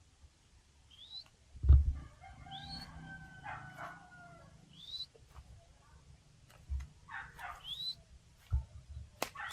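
Outdoor bird sounds: a rooster crowing, held for about a second and a half, and about four short chirps that rise quickly in pitch, spread a few seconds apart. A few low thumps, the loudest nearly two seconds in.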